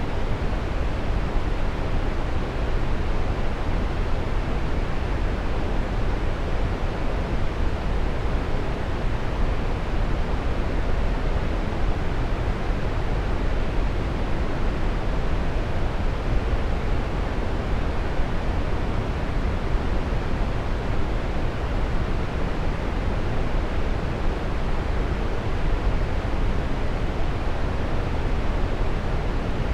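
Waterfall: falling water making a steady, even rush, deepest at the low end, with no breaks or changes.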